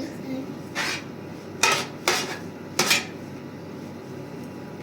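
Several sharp clattering knocks of hard objects being handled, spaced irregularly about half a second to a second apart.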